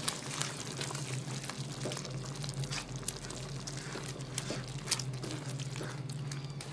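Chicken frying in butter in a kadai, sizzling with irregular crackles as it is stirred and turned with a silicone spatula. A low steady hum runs underneath.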